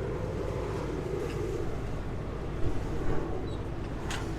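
Sailboat's auxiliary engine running steadily at slow speed, a low rumble under the motion noise, with wind on the microphone and a couple of knocks a little past halfway.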